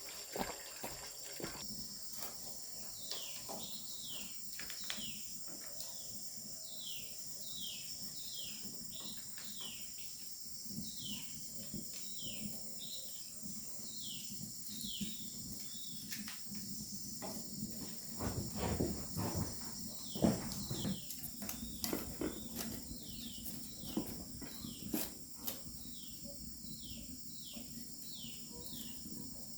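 Outdoor insect chorus: a steady, high trilling that never lets up, with an animal's short call that falls in pitch repeating about once or twice a second. A few knocks and rustles come partway through.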